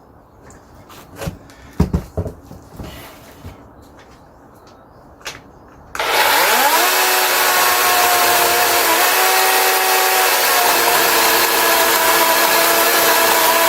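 A few light knocks and handling sounds, one sharper knock about two seconds in. Then, about six seconds in, a DeWalt 18 V cordless electric chainsaw starts suddenly: its whine rises for about a second, then it runs loudly and steadily as it cuts through a log.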